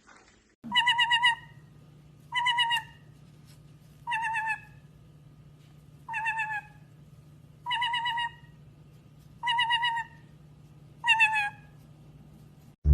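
A bird giving the same short warbling call seven times, evenly about every second and a half to two seconds, over a faint steady low hum.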